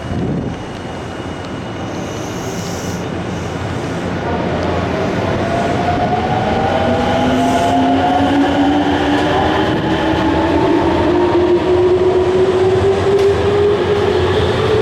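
Electric train pulling away from the platform: its traction motors whine in several tones that rise steadily in pitch as it gathers speed, over the rumble of the wheels on the rails, growing louder.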